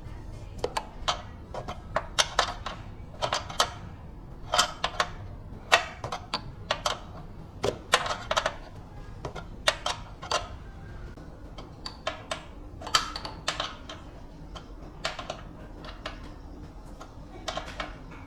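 Irregular sharp clicks and knocks, a few each second, some briefly ringing, like hard metal pieces being tapped or handled.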